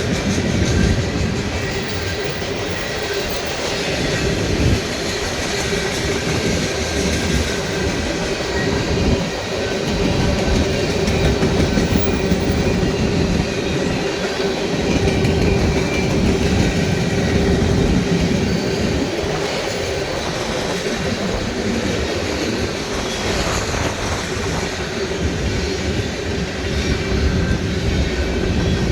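Freight train rolling past, its steel wheels running over the rails with a continuous rumble, a steady ringing tone and occasional knocks.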